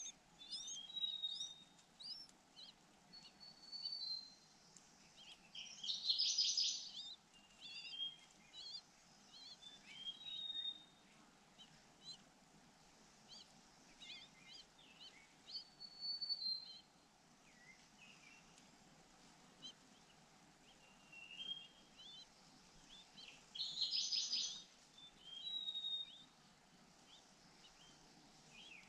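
Pancawarna bird and its chick chirping: many short, high sweeping notes throughout, with two louder bursts of rapid calls, about six seconds in and again near twenty-four seconds, while the parent feeds the chick by beak.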